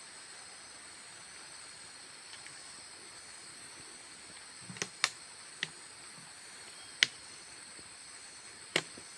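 A steady high-pitched drone of insects over a hiss. About five sharp, short clicks come in the second half, two of them much louder than the rest.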